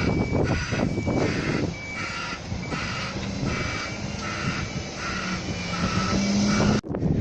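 Bin lorry's electronic warning beeper sounding about once a second in two alternating pitches, over the truck's engine and bin-lift hydraulics. Partway through, a low engine note rises steadily as the engine speeds up.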